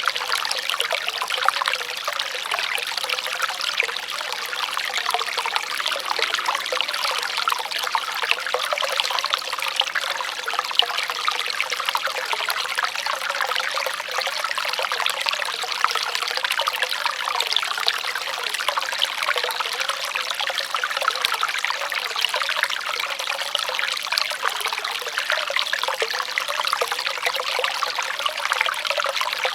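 Running water trickling and splashing steadily, with no change in level.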